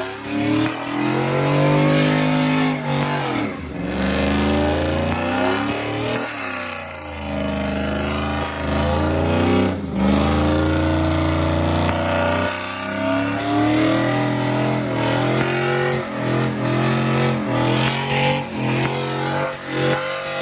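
A car engine revving hard again and again, its pitch climbing and dropping sharply several times over the stretch.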